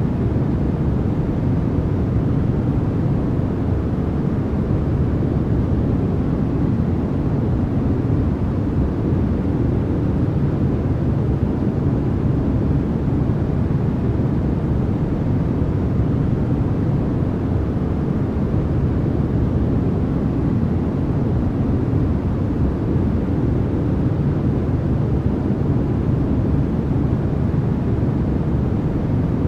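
Steady, unchanging sleep-noise track sold as white noise. Its energy sits mostly low, so it sounds like a deep, even rumble more than a bright hiss.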